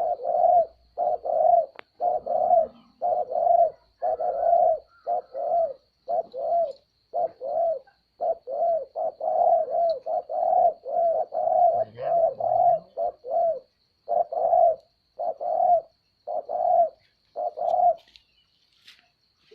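A dove cooing in a long, fast series of short coos, each bending up and down in pitch, about two a second. The coos stop shortly before the end.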